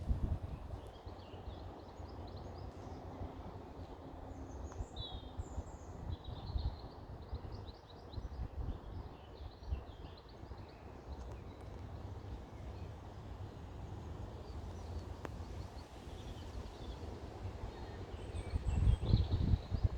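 Small songbirds chirping and singing, with a steady low rumble of wind on the microphone that grows louder near the end.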